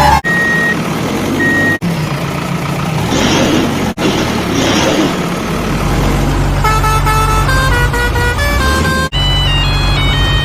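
Heavy vehicle engines running with horn tones sounding over them. The sound breaks off sharply several times.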